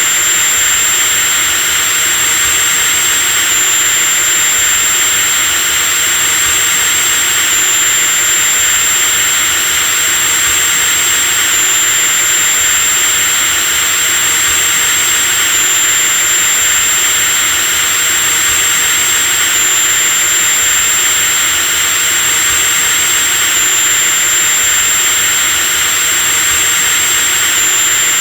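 Electric drill running continuously at steady speed, a loud high-pitched motor whine over dense mechanical noise, with a slight step in pitch about every four seconds.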